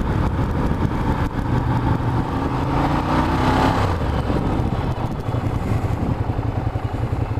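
Ducati Diavel's L-twin engine running as the motorcycle is ridden, its revs rising briefly between about two and four seconds in.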